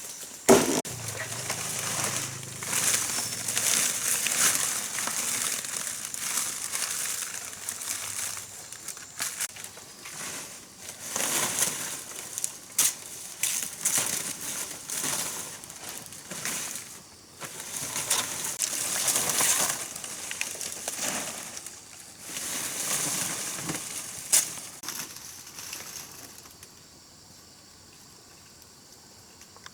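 Dry material rustling and crinkling in repeated waves of a second or two, with scattered sharp clicks; it dies down near the end.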